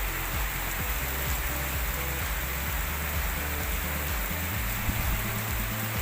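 Steady, even rain falling in a rainstorm with strong wind, with an uneven low rumble of wind buffeting the microphone.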